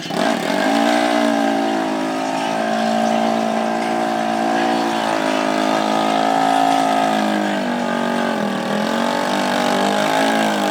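An off-road racing engine running at steady high revs. Its pitch dips briefly and recovers near the end. The sound starts and cuts off suddenly.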